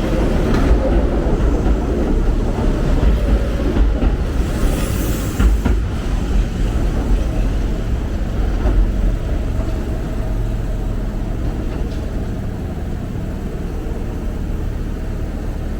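Electric train rumbling at a station platform, the low rumble slowly easing, with a brief hiss about five seconds in.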